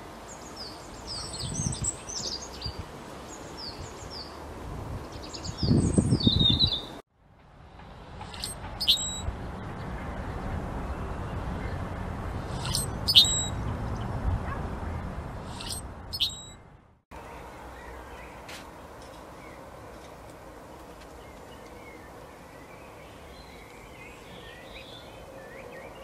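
Wild songbirds calling in three spliced outdoor recordings that cut off abruptly between sections. First come many quick high chirps, with a low rumble about six seconds in. Then a few sharp single chip calls sound over a steady rushing noise. Near the end there is faint twittering.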